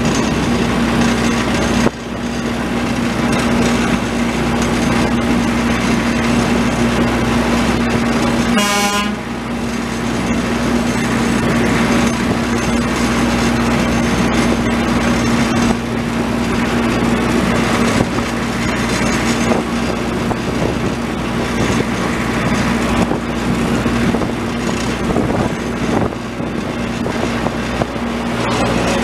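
A rail train hauling a wagon loaded with rails runs steadily along the track, with its engine humming and the wheels running on the rails. A short horn toot sounds about nine seconds in.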